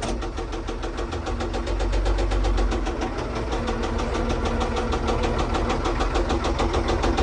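Case 1030 tractor engine running with a regular, even ticking knock from its top end. The front cylinder is not firing, a fault the seller puts down to a stuck valve or a broken valve spring. A deeper low rumble swells for a second or two about a second in.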